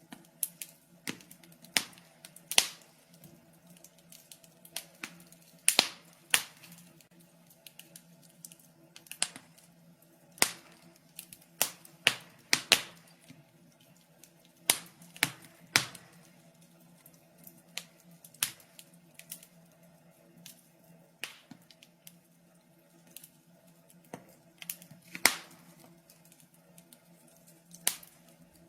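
Wood fire crackling in a fireplace: irregular sharp pops and snaps, some louder than others, over a faint steady low hum.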